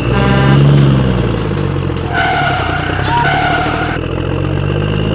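Truck engine running steadily, with a short horn-like tone right at the start and a longer, wavering horn-like tone in the middle.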